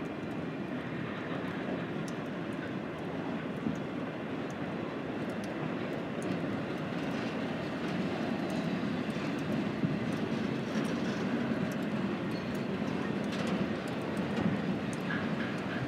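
Freight train of double-stack container cars rolling past: a steady rumble of steel wheels on rail, with faint scattered clicks.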